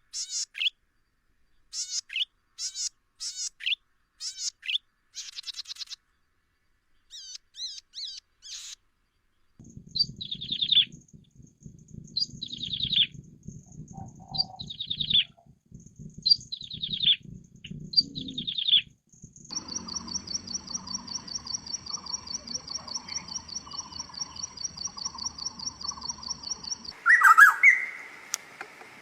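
Songbirds singing, one recording after another. First come short repeated calls, then about six falling phrases spaced about a second apart, then a fast, even trill held for about seven seconds, and near the end a louder, different bird.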